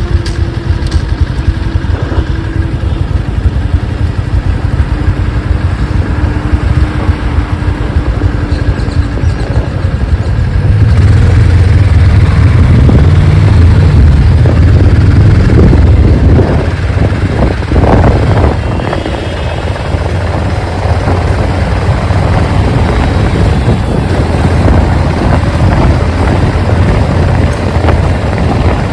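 Motorcycle running along the road with a continuous low rumble that grows louder for several seconds about a third of the way in.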